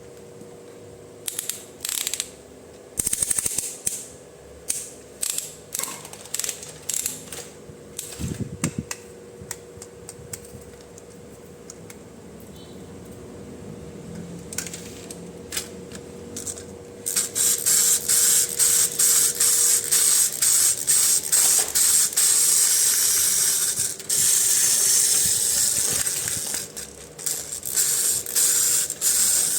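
Plastic toy packaging being opened by hand: scattered crinkles, clicks and snaps for about the first half, then about twelve seconds of dense, continuous crinkling and rustling that eases near the end. A faint steady hum runs underneath.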